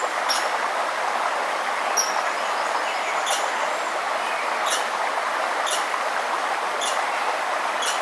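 Steady rush of a forest stream, with a bird repeatedly giving short, high chip notes about once a second over the water.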